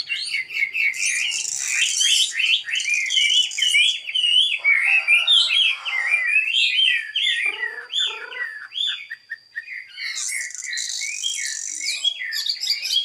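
Chinese hwamei, a fighting hwamei cage bird at the end of its moult, singing a long, varied run of quick rising and falling whistled phrases with hardly a break.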